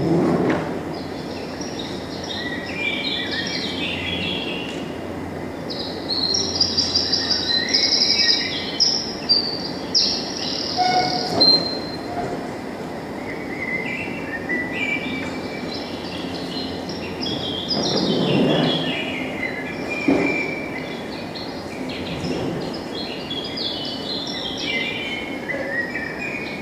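Birds singing, with many short chirps and fast trills, a run of rapid repeated notes about a quarter of the way in, over a steady background rumble that swells louder about two-thirds through.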